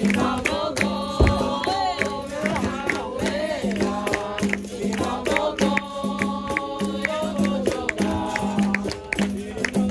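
Capoeira roda music: a group singing together over berimbau and hand percussion keeping a steady beat.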